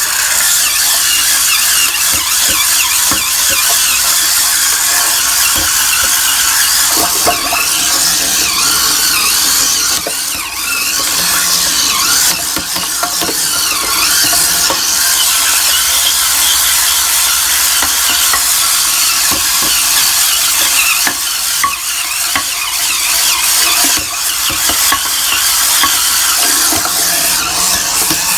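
BulbHead Hurricane Spin Scrubber, a cordless battery scrub brush, running with its corner brush spinning against the inside of a toilet bowl: a steady, loud, high scrubbing hiss of bristles on wet porcelain.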